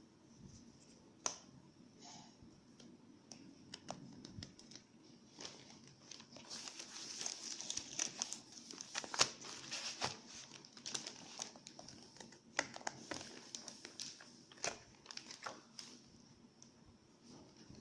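Plastic packaging from a smartphone unboxing being handled: crinkling and rustling with scattered sharp clicks and taps, busiest in the middle.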